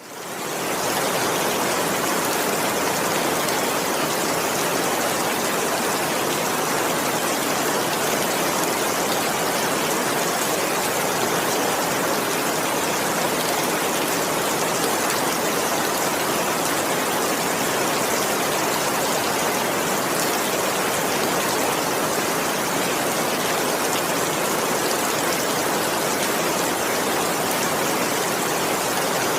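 Heavy rain falling steadily as an even hiss with no thunder, fading in over the first second.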